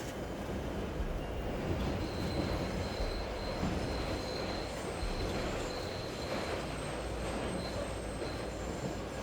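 Train running past with a steady low rumble and a thin, high wheel squeal from about two seconds in until near the end, over a constant wash of city and rain noise.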